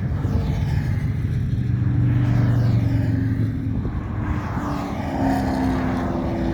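Cars driving past on the road with their engines running, a dense steady rumble; about two-thirds of the way through, one car's steady engine note comes in.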